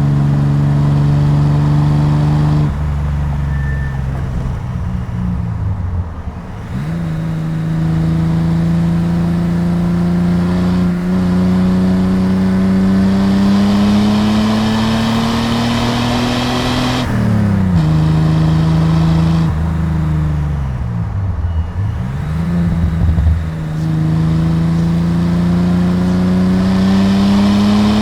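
Datsun 240Z's 2.8-litre L28 inline-six exhaust while driving. The engine pulls steadily up through the revs, drops sharply at a gear change a little past halfway, falls away and comes back up, then climbs again.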